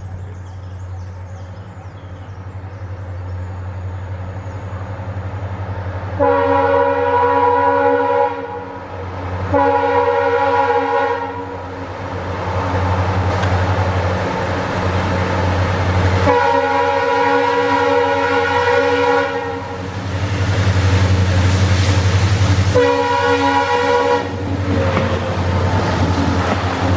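EMD WDG4 diesel-electric locomotives working hard on a heavy freight train climbing a ghat. Their engines drone steadily, growing louder over the first few seconds. The locomotive horn sounds four multi-tone blasts, the third the longest.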